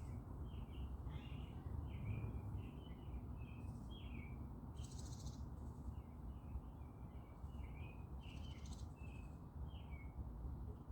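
Small songbirds chirping, a busy run of short, quick notes that goes on with only a brief pause. It sits over a steady low background rumble, with two brief high buzzy sounds in the middle.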